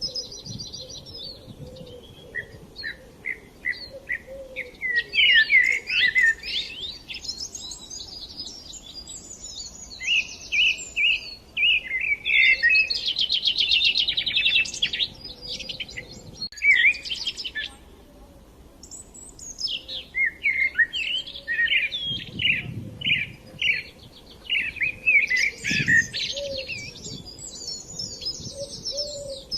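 Several songbirds singing and chirping, with quick repeated notes and trills overlapping one another and a short lull just past the middle.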